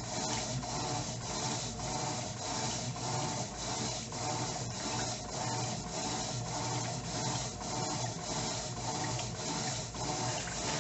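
Electrolux LTE09 top-loading washing machine agitating a load of clothes in water during the wash cycle: a rhythmic back-and-forth swish, about two to three strokes a second, over a steady motor hum.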